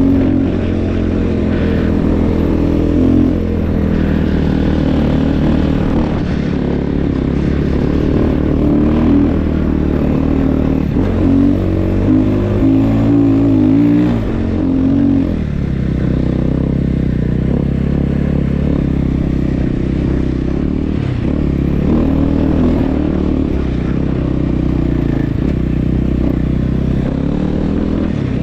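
Snow bike engine running as it is ridden, the revs rising and falling, most noticeably around the middle.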